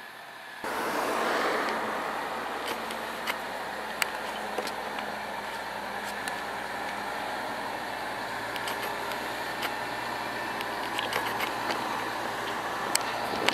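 Heavy diesel farm machinery running steadily, cutting in suddenly about half a second in, with scattered light clicks and rattles over the drone.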